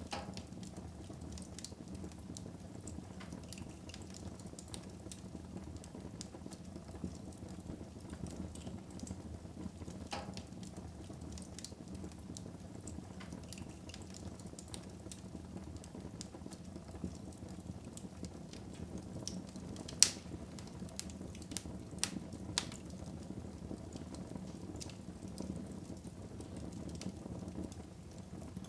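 Fire burning in a fireplace: a steady low rush of flames with scattered crackles throughout, and a sharp loud pop about twenty seconds in, followed by a few smaller pops.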